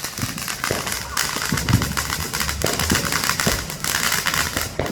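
Many consumer fireworks and firecrackers going off at once: dense crackling that thickens about a second in, with scattered sharp bangs and a few heavier low booms.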